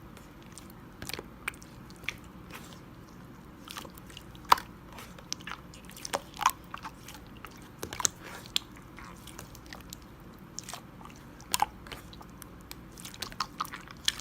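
Slime being squeezed and pressed by hand, giving irregular sharp clicks and small popping sounds, several a second at times.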